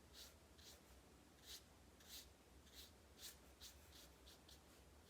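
Faint soft swishes of a watercolour brush stroking paint across paper: about ten short strokes, irregularly spaced.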